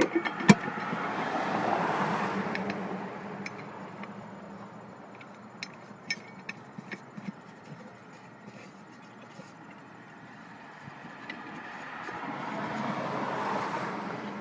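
Two passing cars on a nearby road, each swelling up and fading away, the first about 2 seconds in and the second near the end. A few sharp knocks at the start and light clicks in the middle come from parts being handled.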